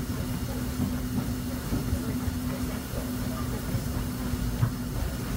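Open-sided passenger coach of the Disneyland Railroad's steam train rolling along the narrow-gauge track: a steady low rumble of wheels on rails with scattered clacks, under a steady hum that drops out near the end.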